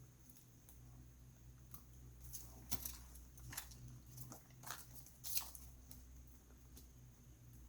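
Faint clicks and scrapes of a small laptop cable being worked into its connector, the sharpest a little under 3 seconds in and again past 5 seconds.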